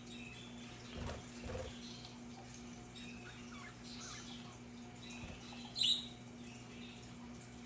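Budgerigars chattering with scattered soft chirps and warbles, and one loud, sharp chirp a little before the end. Two soft low thumps come about a second in, over a steady low hum.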